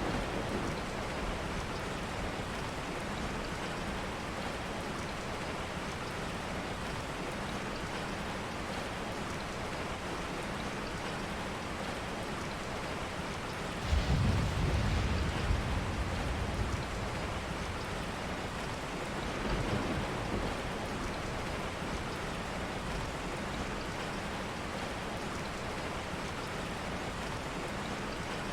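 Steady rain falling, with a sudden low rumble of thunder about halfway through that fades over a few seconds, and a fainter rumble shortly after.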